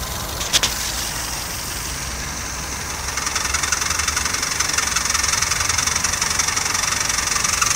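Mazda Premacy engine idling with a newly fitted alternator, with a click about half a second in. From about three seconds a high whirring hiss with fast fine ticking builds up and stays as electrical load (lights, heater fan) comes on: the extraneous noise that appears only under load.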